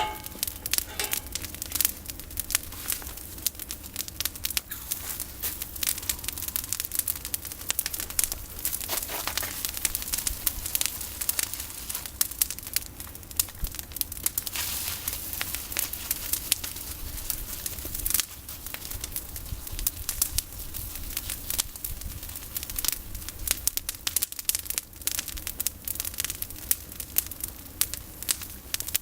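Campfire of pruned olive branches burning, crackling and popping steadily with many sharp snaps.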